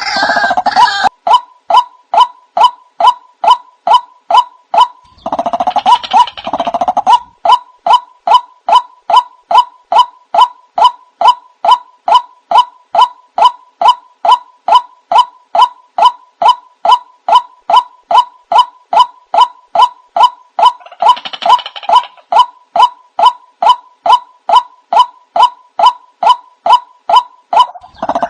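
White-breasted waterhen calls, played as a lure recording: a steady run of short, sharp notes, about three a second, with a denser, rougher stretch of calling about five seconds in and again about twenty-one seconds in.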